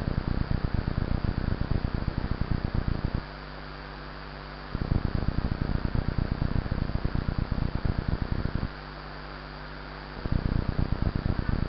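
Wind buffeting and rumble on the microphone while mountain biking, coming in three stretches of fluttering low noise with quieter steady hiss between them.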